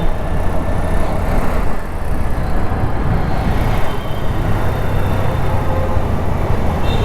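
Wind rumbling steadily on the microphone of a camera riding on a Honda Activa scooter in motion, mixed with the scooter's running and surrounding road traffic.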